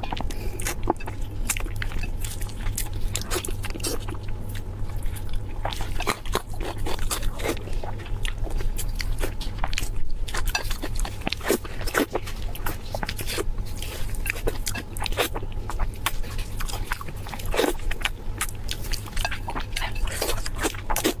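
Close-miked eating: crunchy biting and chewing, with many irregular crisp crackles, over a steady low hum.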